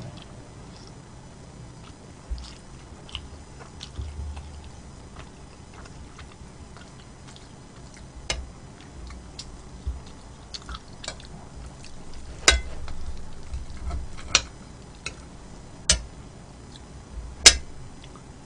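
Close-miked chewing and mouth sounds of someone eating, with scattered soft clicks and a few sharp clinks of utensils against a dish, loudest in the second half.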